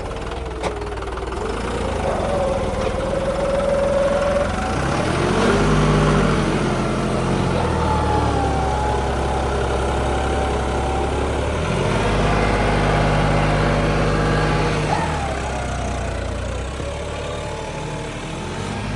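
Tractor diesel engines running, working harder from about five seconds in and easing off again near fifteen seconds.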